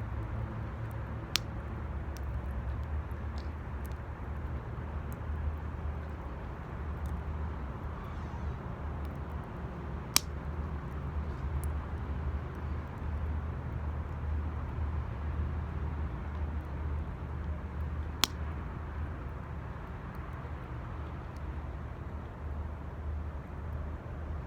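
Bonfire burning in a steel 18-litre can: a steady low rumble with faint scattered crackles and three sharp pops, about a second in, near the middle and about three-quarters through.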